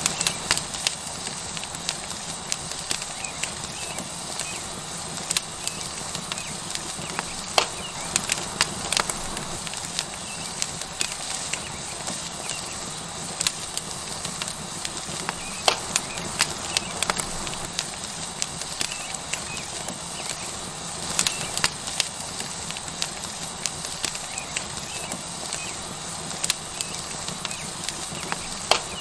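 Wood fire crackling with frequent irregular sharp pops over a steady sizzle from a tomahawk steak searing on a hot rock.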